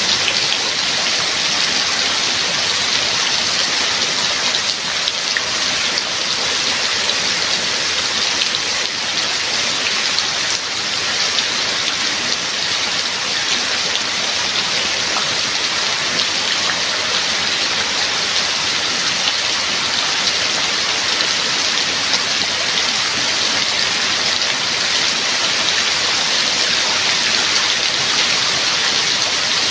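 Steady heavy rain falling, a dense even hiss of drops hitting a surface.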